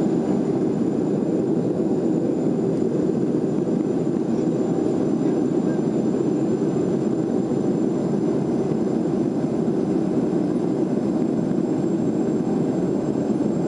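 Steady cabin noise of a Boeing 737-400: an even rumble of its CFM56-3 jet engines and airflow, with a faint thin high whine above it and no change in level.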